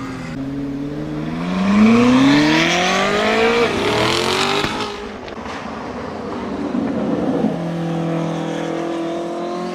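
Koenigsegg Jesko's twin-turbocharged 5.0-litre V8 accelerating hard, its pitch climbing for about four seconds. Near halfway the note drops sharply, then the engine pulls again at a steadier, more slowly rising pitch.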